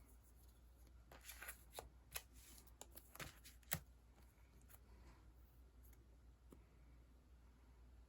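Stickers and their paper and plastic packaging being handled: soft rustling and a few short crackles between about one and four seconds in, the sharpest near four seconds, over a faint steady hum.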